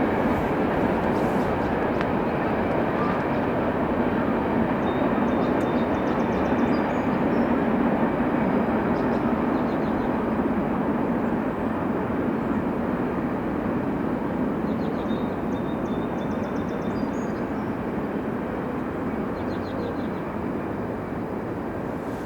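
Freight train cars rolling past on steel rails, a steady rumbling clatter of wheels that eases off slightly over the last half.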